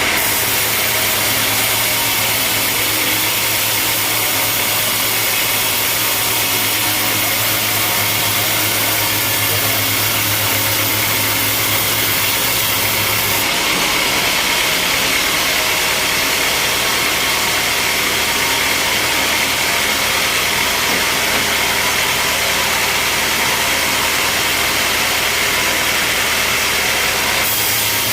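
Sawmill machinery running steadily: a loud, even mix of motor hum and hiss. The low hum cuts out abruptly about halfway through and comes back near the end.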